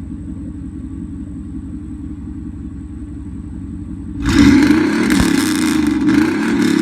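A pickup truck engine's low, steady rumble. About four seconds in it switches suddenly to a much louder engine revving, its pitch rising and falling.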